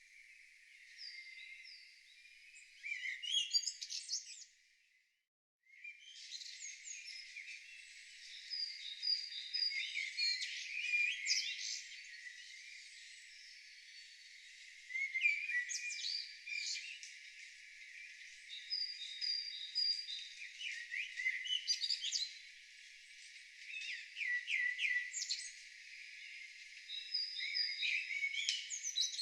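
Mixed birdsong: several birds chirping, trilling and whistling over one another, with a break of about a second about five seconds in.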